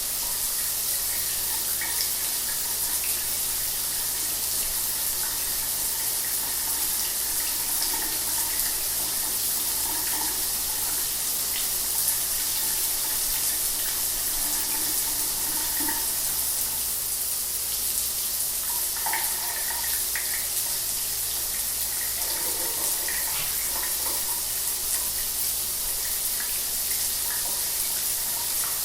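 Shower water running steadily: a constant spray hiss with small splashes scattered through it.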